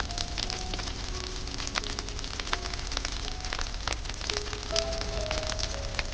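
Wood fire crackling, with many sharp pops and snaps at irregular intervals, several a second. Soft, sustained background music notes play underneath.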